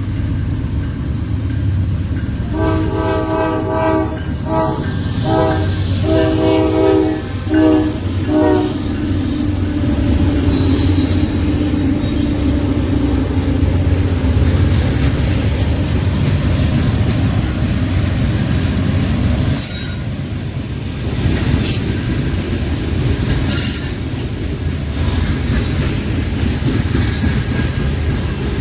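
Train horn sounding several blasts in quick succession, the last two short, then the steady noise of a train rolling past on the rails.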